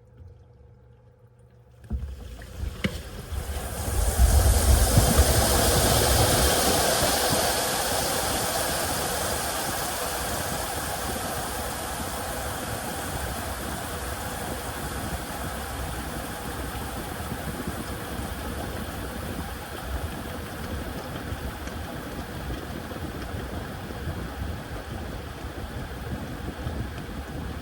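Washing machine starting up: about two seconds in, a sudden loud rushing, mechanical noise begins, peaks briefly, then eases into a steady run.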